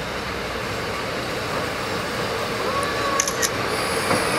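Tsugaru Railway diesel railcar pulling into the station, its engine and wheels running and growing slightly louder as it comes alongside. A thin high squeal from the braking wheels sets in near the end as it slows.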